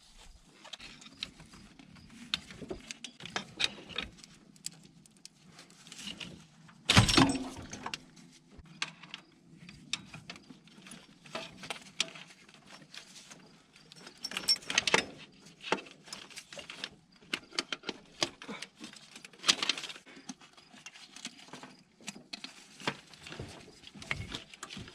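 Scattered clicks, taps and metallic clinks of hand tools and parts being handled while the fuel rail and injectors are taken off a Ford 302 V8, with one louder knock about seven seconds in.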